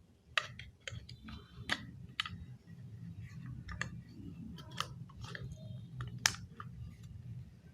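Plastic model-kit pieces being handled and pressed together: a run of irregular sharp clicks and snaps, several of them loud, over a low steady hum.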